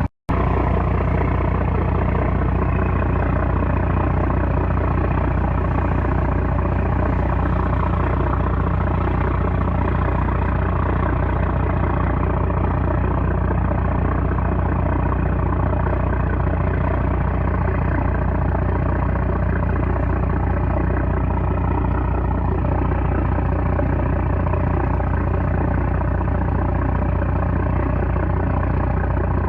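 A 330-horsepower trawler's engine running at a steady speed, a constant low drone with a hum of harmonics above it. The sound drops out for an instant just after the start.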